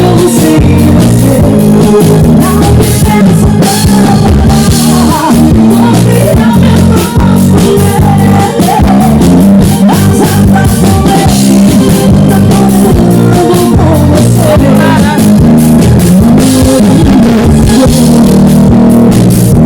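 Arrocha band playing live, loud and continuous, with no lyrics heard in the passage.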